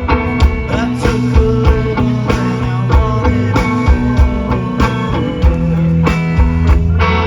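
Rock band playing live: guitar over bass and a steady drum beat.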